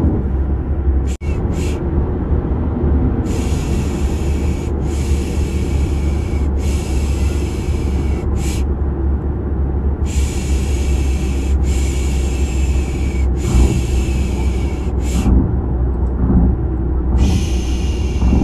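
Steady low car-interior rumble used as a baby-sleep sound, with a rhythmic 'pish pish' shushing laid over it. The shushes come in hissy pushes of about a second each, in groups of three with a short one after and pauses between.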